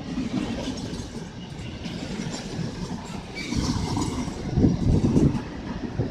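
Empty flat wagons of a freight train rolling past close by: a steady rumble of steel wheels with rapid clatter. The clatter grows heavier and loudest about four and a half to five seconds in.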